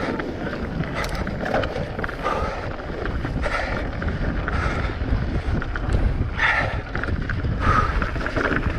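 Wind buffeting the microphone over the rattle and rumble of a mountain bike's tyres and frame descending fast over rough ground.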